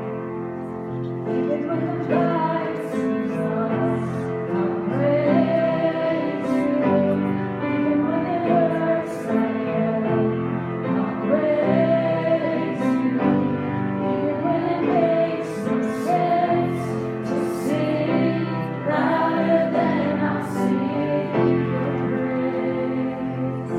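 Worship music: voices singing a song over sustained instrumental chords.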